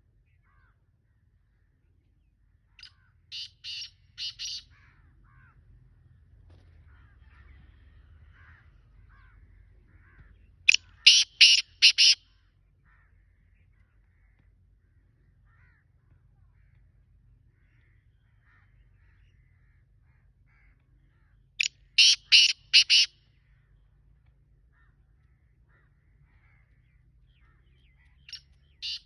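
Black francolin calling: three bouts of four or five short, harsh, grating notes in quick succession, spaced several seconds apart, with a fourth bout starting near the end. Faint small chirps come in between the calls.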